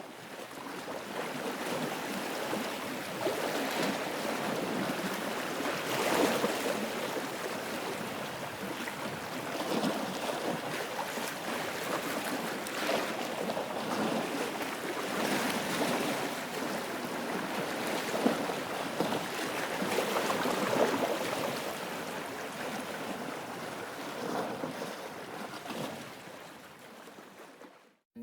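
Ocean waves washing in, a swell every three or four seconds, fading in at the start and out near the end.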